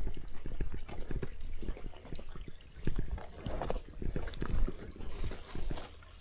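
A hiker's footsteps walking along a trail, an irregular run of soft thuds with some rustling.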